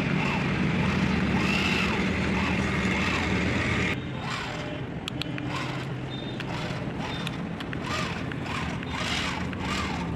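Small electric motor and gearbox of an RC tractor running with a steady whine, which stops abruptly about four seconds in; after that, scattered light clicks and knocks.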